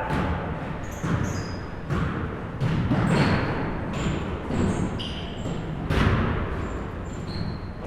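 Basketballs bouncing on a gym floor, thuds about once a second, with short high-pitched sneaker squeaks between them.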